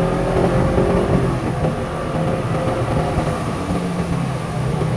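Vehicle engine running while driving, its pitch drifting slightly up and down as the speed changes, over a steady rush of road and wind noise.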